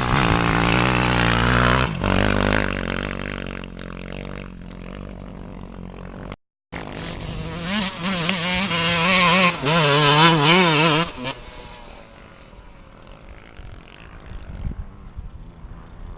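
Off-road race engine running hard, then revving up and down with a warbling pitch, loudest about nine to eleven seconds in before fading. The sound cuts out completely for a split second about six and a half seconds in.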